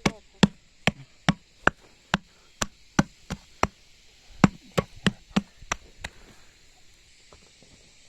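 Repeated chopping with a blade, about two to three sharp strokes a second, stopping about six seconds in.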